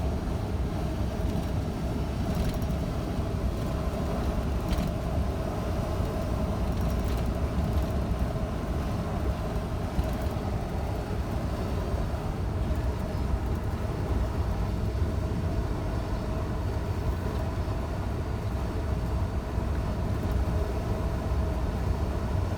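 Scania truck driving along at a steady pace: a constant low engine drone and road rumble with a steady mid-pitched hum over it, a couple of faint ticks about two and a half and five seconds in.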